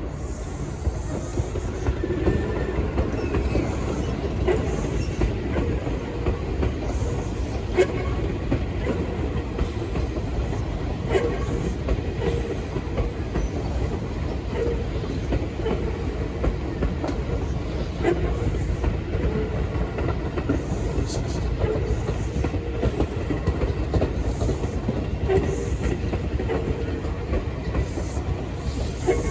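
Electric commuter train on the Tobu Tojo Line running at a steady speed, a continuous rumble with sharp clicks of the wheels over rail joints every few seconds.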